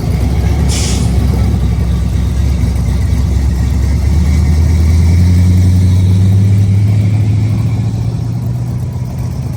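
Car engine running close by with a low, steady exhaust note; it rises in pitch about halfway through, holds, then settles slightly near the end. A short hiss comes about a second in.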